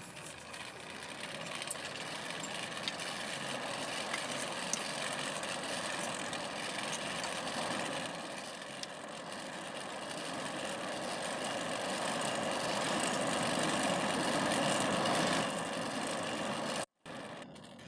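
A machine running steadily: a continuous motor-like hum and hiss that slowly swells and eases, with a few faint ticks. It cuts off suddenly near the end.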